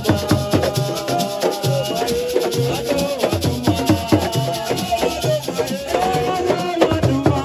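Assiko music: a dense, fast rhythm of drums and a rattling shaker, with a wavering melody line over it.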